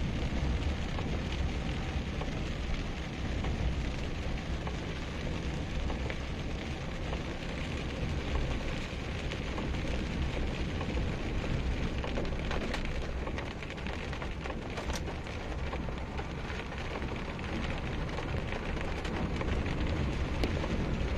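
Rain falling on a moving car, heard from inside the cabin, over a steady low rumble of the car driving on a wet road, with a couple of sharp clicks in the second half.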